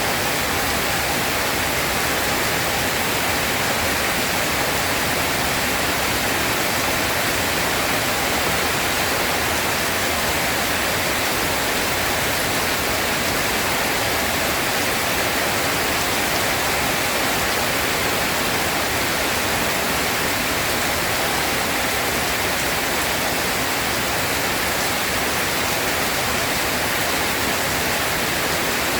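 Steady, even rain hiss that does not change in strength, with no thunder.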